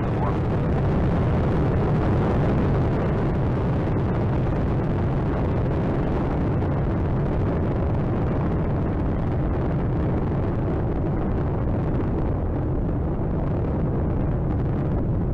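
Space Shuttle Atlantis climbing after liftoff: the steady, dense roar of its two solid rocket boosters and three liquid-fuel main engines, heaviest in the low end, its upper range dulling slightly near the end as the vehicle pulls away.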